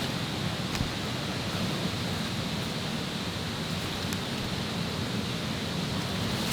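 Steady rush of running water, even and unbroken, with a faint high steady tone above it.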